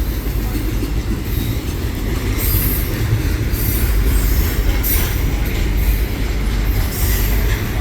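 Train rolling past with a steady heavy rumble, its wheels giving repeated short high squeals.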